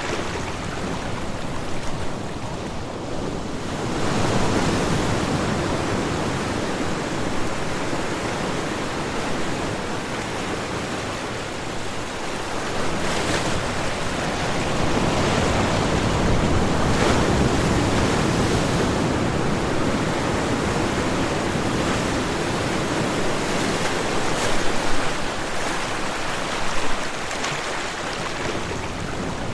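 Ocean waves breaking and washing in, a steady rushing surf that swells and eases in slow surges.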